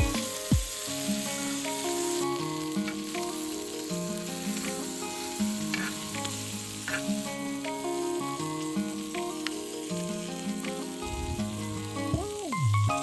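Food frying and sizzling in a hot pan, a steady hiss with occasional stirring, under background music.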